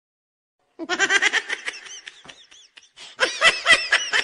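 Laughter in quick, pulsed bursts, starting after a short silence about a second in, fading, then a second, louder bout near the end.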